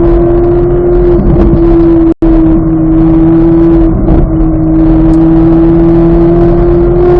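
2023 Chevrolet Corvette Z06's 5.5-litre flat-plane-crank V8 running loud at high, nearly steady revs under way, its pitch creeping up slightly in the second half. The sound cuts out for an instant about two seconds in.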